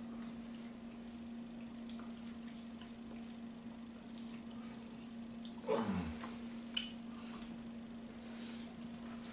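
Faint wet chewing and lip-smacking of people eating chicken pieces by hand, over a steady low hum. About six seconds in, a short falling vocal sound.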